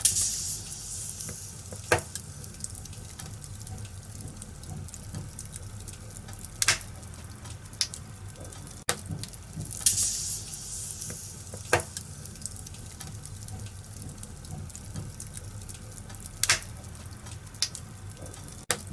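Wood fire in a fireplace crackling: a steady low hiss and rumble, broken every few seconds by a sharp pop of burning wood, with two short bursts of hissing.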